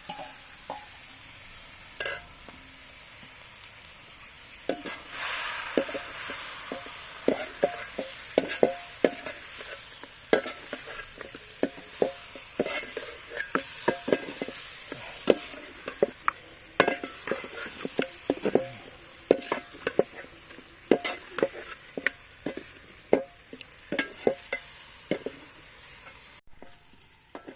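Masala-marinated chicken frying in hot oil with onions in a pan, sizzling; the sizzle swells about five seconds in as the chicken goes in. A spatula then clacks and scrapes against the pan over and over as the chicken is stirred.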